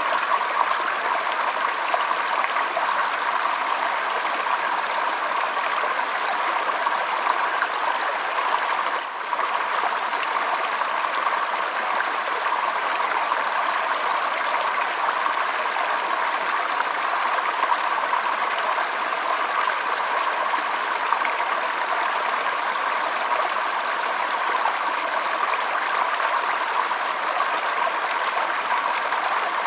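Stream water flowing steadily in a continuous rush, with a brief dip in loudness about nine seconds in.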